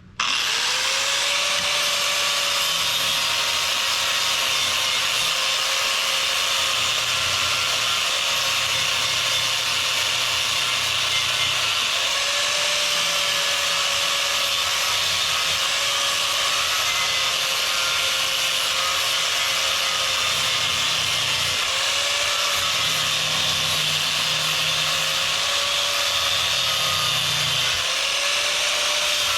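Angle grinder switched on and running steadily on metal, a loud hiss of grinding with a motor whine that climbs as it spins up and then wavers slightly as it is worked.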